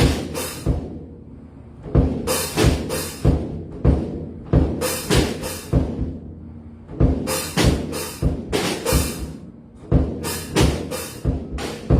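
Drum kit played freely: low drum hits under clusters of cymbal crashes that come in bursts every two seconds or so.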